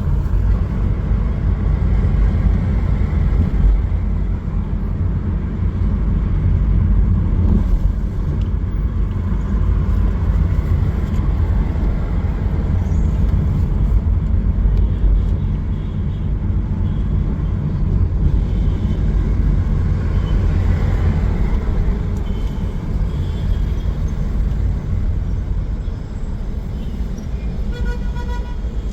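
Steady low rumble of car traffic on a city street.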